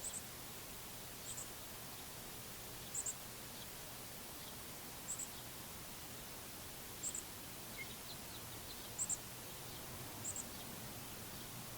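Outdoor backyard ambience: a steady hiss with short, high, thin double chirps repeating about every one to two seconds, and a few fainter ticks between them.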